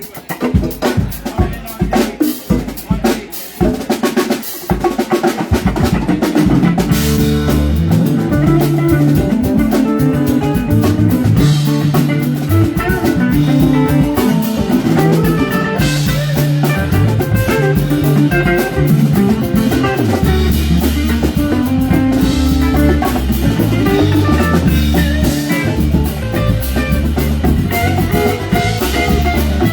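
Live rock band starting a song: the drum kit plays alone for the first few seconds, then bass and electric guitar come in and the band settles into a steady groove.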